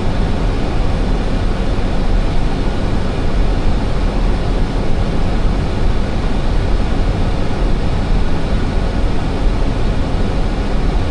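Airbus A320 flight deck in flight on approach: a steady rush of airflow and engine noise, heaviest in a deep low rumble.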